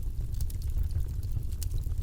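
Wood fire in a fireplace crackling: scattered sharp pops and snaps, several a second, over a steady low rumble of burning.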